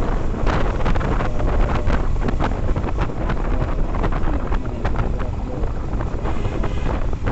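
Wind buffeting a motorcycle-mounted microphone while riding, with the Yamaha FZS V3's single-cylinder engine running underneath.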